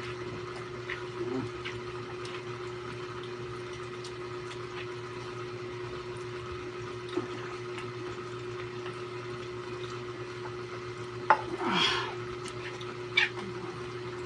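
A steady low hum with a few faint clicks, and a short louder burst about twelve seconds in.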